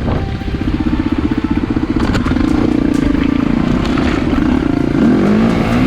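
KTM EXC-F single-cylinder four-stroke dirt bike engine running at low revs. It chugs at first, then holds a steadier note, and rises and falls in revs near the end. A few sharp clicks and knocks are scattered through it.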